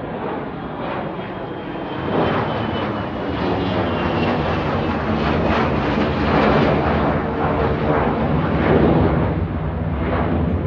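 A departing aircraft's engines at takeoff power: a loud, steady rushing noise that swells about two seconds in, with a faint high whine slowly falling in pitch.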